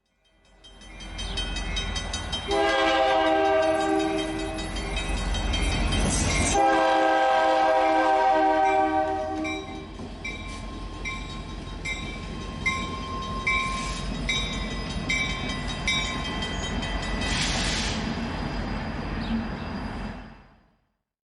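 A train passing with a steady rumble. It sounds its air horn in two long blasts, each a chord of several tones, the first about two and a half seconds in and the second just under seven seconds in. After them a high ding repeats evenly, a bit faster than once a second, over the train noise.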